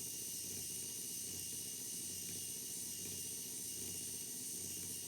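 Steady hiss with a low hum underneath, starting suddenly and cutting off suddenly about five seconds later.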